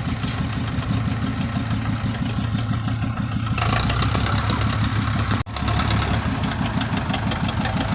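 Dump truck's diesel engine running steadily, with a momentary dropout about five and a half seconds in.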